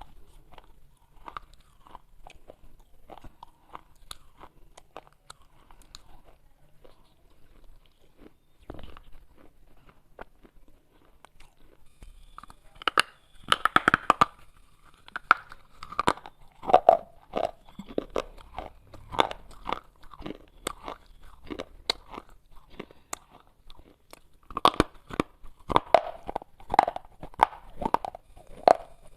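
Pieces of baked clay pot being bitten and chewed, a run of sharp crunches. They are quieter through the first half, with loud, dense bursts of crunching about halfway through and again near the end.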